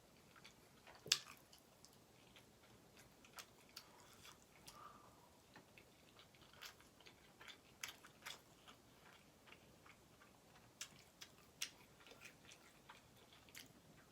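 A person chewing a mouthful of chicken curry and rice, with faint, scattered wet mouth clicks and one sharper click about a second in.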